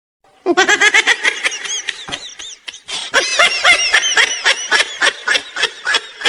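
High-pitched laughter in quick, short ha-ha pulses, starting about half a second in, with a brief break near the middle.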